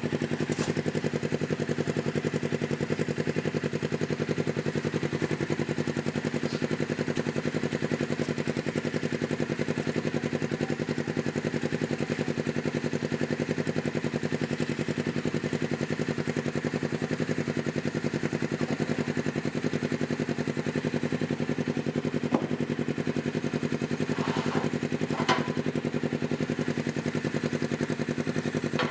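2012 Polaris RZR XP 900's twin-cylinder engine idling steadily through a Looney Tuned dual aftermarket exhaust, with a couple of light clicks late on.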